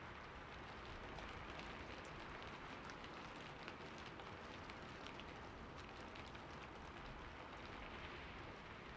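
Steady rain falling on a roof, a soft even hiss with many small drop ticks pattering through it.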